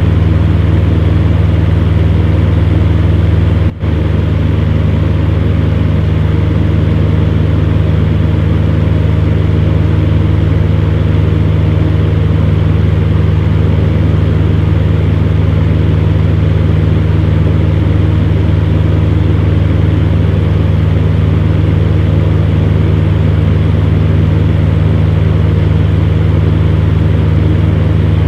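Electric fan running with a steady low hum and airy whoosh, with a momentary dropout about four seconds in.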